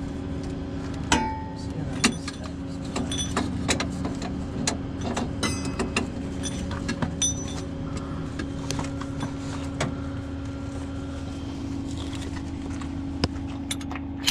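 Tow truck's engine idling steadily, with scattered metallic clinks and clanks of hardware being handled.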